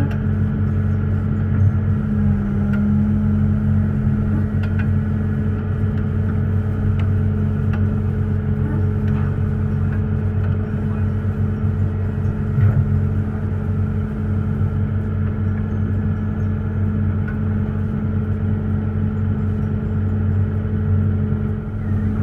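Large engine running steadily at constant speed, a low, even drone with a few faint knocks over it.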